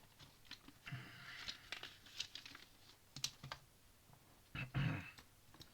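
Loose LEGO plastic pieces being sorted and handled: scattered sharp plastic clicks and short rustles, with a dull thump just before the end.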